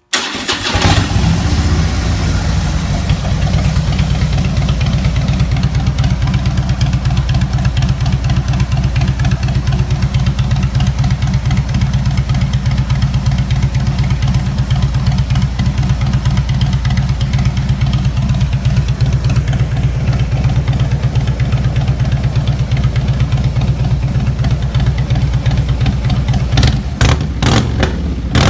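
Harley-Davidson Street Glide V-twin with unbaffled straight-pipe slip-on exhausts starts up and settles into a loud, lumpy, pulsing idle. There are a few quick throttle blips near the end.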